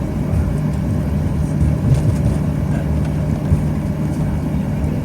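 Cabin noise of a Boeing 737-800 on the ground with its CFM56 jet engines running at idle: a steady low rumble with a constant hum.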